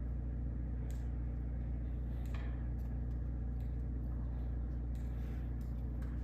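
A steady, low machine hum with a few faint clicks and knocks over it.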